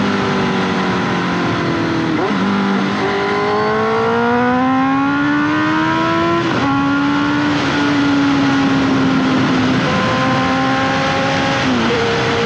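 Honda CBR 650F's 649cc inline-four running through an SC Project exhaust while riding. The pitch climbs steadily for a few seconds, then drops abruptly at a gear change about six and a half seconds in, falls again around ten seconds, and jumps up sharply near the end. Heavy wind noise runs underneath.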